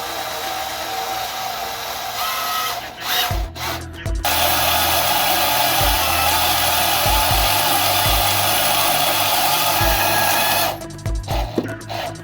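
A power tool running in a workshop, with short stop-start bursts and then a steady run of about six seconds. Background music with a steady kick-drum beat plays underneath.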